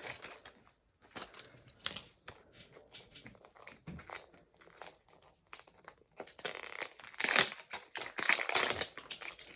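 Paper wrapping of a toy capsule being crinkled and torn open by hand. It starts as scattered small crackles, then becomes a louder, denser stretch of tearing and crinkling over the last few seconds.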